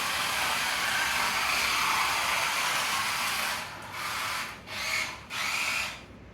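Electric RC drift car running hard across the floor, its motor whirring with tyre scrub, steady for about three and a half seconds and then in three short bursts before stopping.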